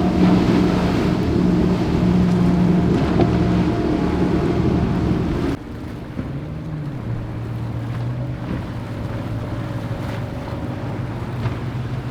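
Motorboat engines running steadily, with wind and water noise. About five and a half seconds in, the sound cuts abruptly to a quieter, lower-pitched engine.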